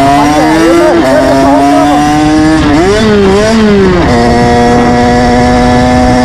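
Moped engine running under way at high revs, its pitch climbing gently, dropping about a second in, wavering up and down around three seconds in, then holding steady.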